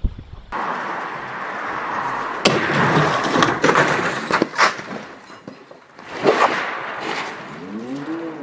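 Car collision picked up on a dashcam: several loud bangs and crunches of breaking parts over steady road noise, clustered in the middle of the clip, with another bang a little later.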